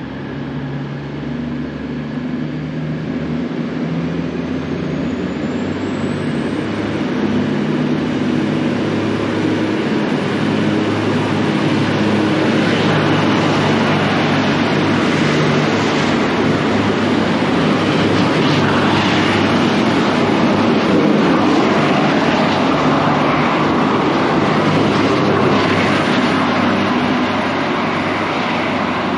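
V/Line diesel train running through the station. Its engine note and wheel noise grow louder over the first several seconds and then hold steady.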